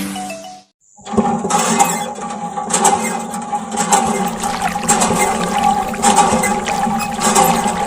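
Water gushing and splashing with a steady motor hum underneath: a small hobby water pump running and pushing water out. It starts abruptly about a second in, right after background music cuts off.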